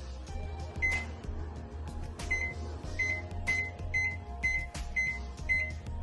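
Microwave oven running with a steady low hum. From about a second in there is a string of short high beeps, about two a second.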